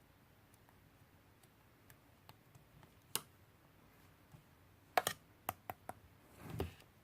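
Scattered light clicks and taps in a quiet room: one about three seconds in, a quick run of sharper clicks around five seconds, then a brief duller rub or knock near the end.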